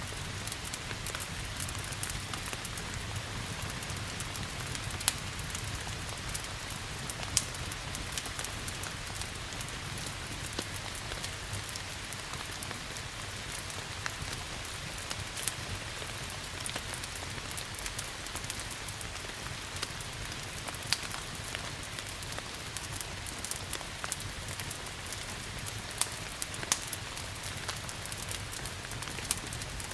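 Steady rain hiss mixed with a crackling fire, with scattered sharp pops and clicks throughout over an even wash of noise.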